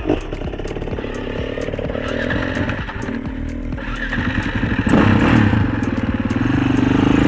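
Husaberg FE 650 dirt bike's single-cylinder four-stroke engine running with a rapid, even firing beat, revving up about five seconds in and pulling harder near the end.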